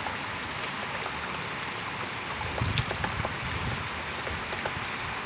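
Rain falling steadily as an even hiss, scattered with sharp ticks of individual drops striking close by.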